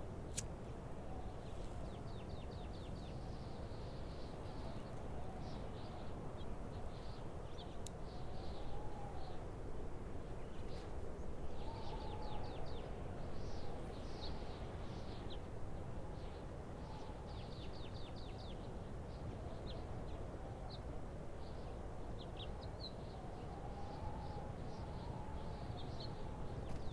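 Birds chirping in short calls and quick trills, with a fainter wavering call now and then, over a steady low background hiss of open air. A single sharp click sounds about a third of a second in.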